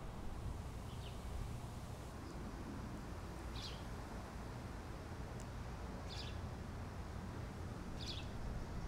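Outdoor ambience: a steady low rumble with a few short, high bird chirps spaced a couple of seconds apart.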